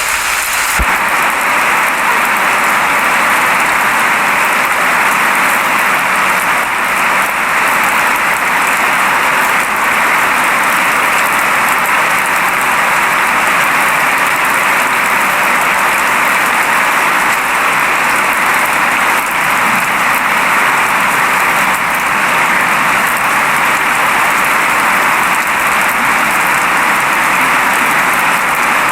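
Steady rain falling as an even, unbroken hiss, with no single drops, thunder or other sounds standing out.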